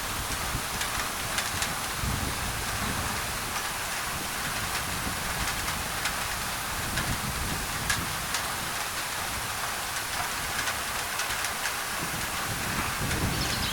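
Steady rain on a thin tin roof, with scattered ticks of single drops over an even hiss of white noise.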